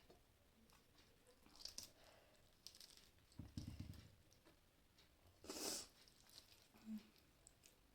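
Faint eating sounds: quiet chewing and soft clicks of food being picked up. A brief low thump comes about three and a half seconds in, and a short noisy rustle-like sound comes near six seconds.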